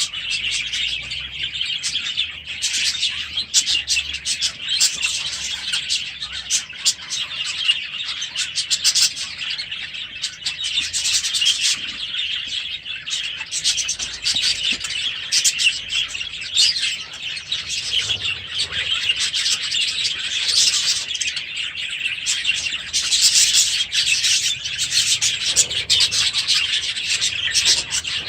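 A flock of small aviary birds chirping and chattering all at once, a dense, unbroken twittering with many overlapping short calls.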